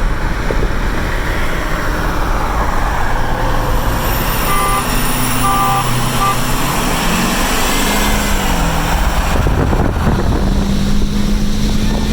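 GMC Sierra Denali's 6.2-litre V8 pulling under throttle at road speed in a roll race, heard with steady road and wind noise. About seven seconds in, the engine note rises sharply, dips briefly at a gear change, then holds steady. A few short electronic chime beeps sound partway through.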